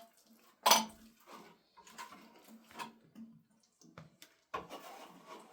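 A series of clinks and knocks of hard objects being handled, with one louder knock a little under a second in and smaller clicks after it.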